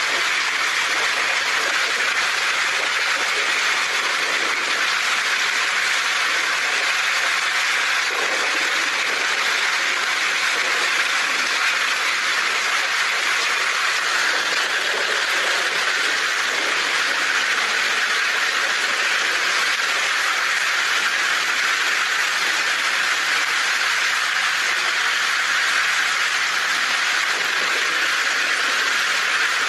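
Heavy rain falling on a tin roof, a steady, even hiss.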